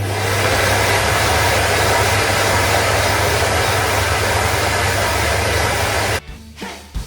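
A motor-driven machine running with a steady loud hiss over a low hum, starting abruptly and cutting off suddenly about six seconds in.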